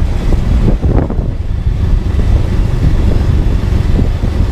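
Wind buffeting the microphone of a moving motorcycle: a loud, low, fluttering rumble of wind and ride noise.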